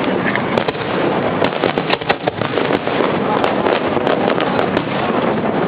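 Fireworks bursting in rapid succession: a dense, continuous barrage of many sharp cracks over a steady rumbling wash.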